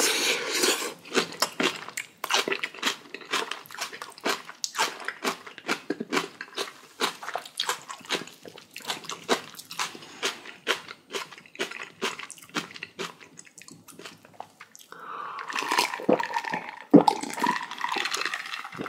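Close-up chewing of spicy kimchi: irregular crunches and wet mouth clicks, several a second. Near the end there is a louder, denser stretch of about three seconds.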